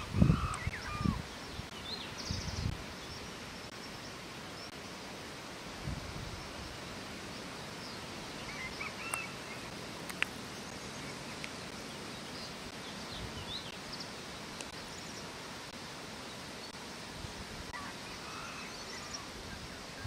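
Outdoor natural ambience: a steady hiss with scattered faint, short bird chirps. A few low thumps sound in the first second or so.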